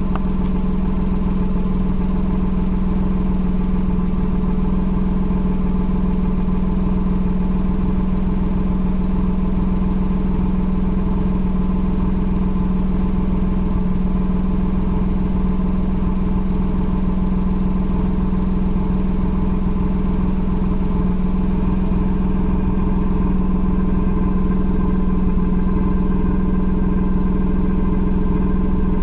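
Suzuki Alto kei car engine idling steadily at an even, unchanging pitch.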